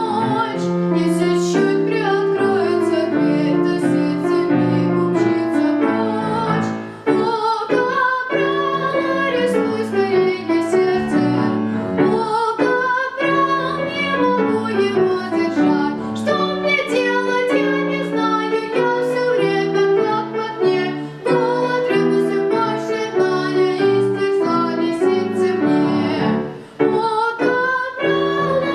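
A female voice singing a song with piano accompaniment, briefly pausing between phrases a few times.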